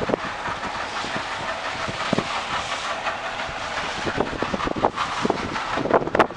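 Steady rushing hiss of a boat under way, with wind on the microphone and irregular knocks and rattles throughout. The knocks come thicker near the end.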